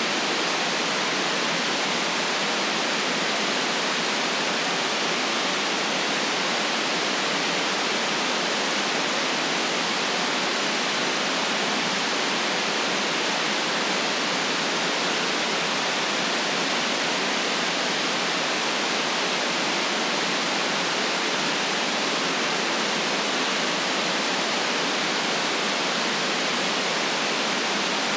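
Generated white noise: a steady, even hiss with no change, its deepest bass and highest treble cut off.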